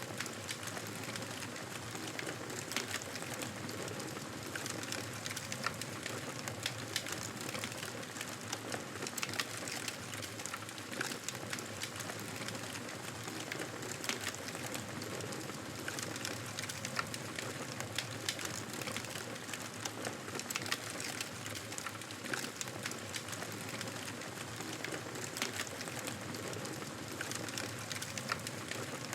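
Campfire crackling: a steady hiss of burning wood with frequent sharp pops and snaps scattered throughout.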